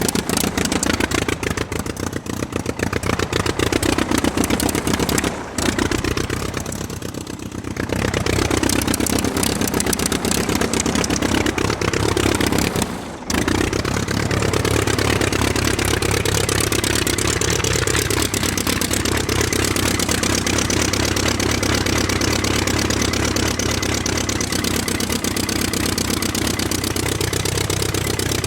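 Engine-like running sound of toy remote-control monster trucks driving, rising and falling in pitch as they speed up and slow down. There are short breaks about five and thirteen seconds in.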